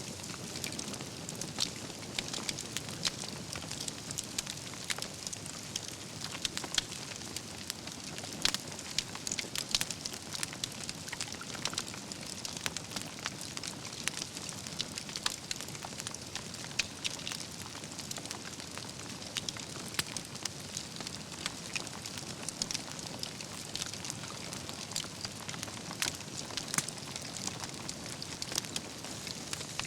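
Wood campfire burning, with a steady low rush of flame and constant irregular crackles and pops from the logs.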